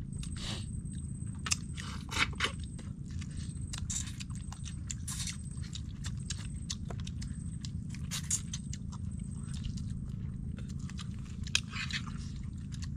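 Several people chewing and crunching pieces of cooked fish eaten by hand, with many short crunches and mouth smacks at irregular intervals. A steady low rumble of background noise runs underneath.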